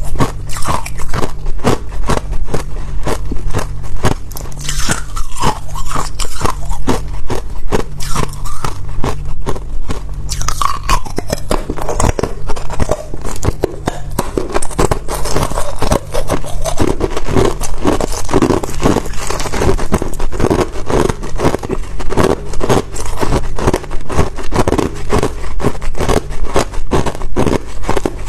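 Ice being bitten and chewed close to the microphone: a continuous run of crisp cracks and crunches.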